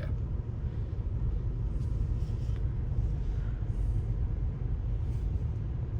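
Steady low rumble of a car's engine and running gear heard from inside the cabin as the car drives onto a ferry's car deck.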